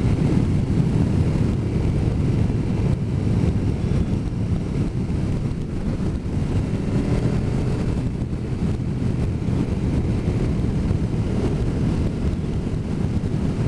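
Wind rushing over the microphone of a motorcycle on the move, with the engine running steadily underneath.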